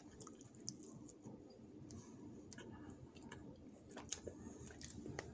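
A person chewing a bite of battered lemon chicken, faint, with scattered soft clicks through it.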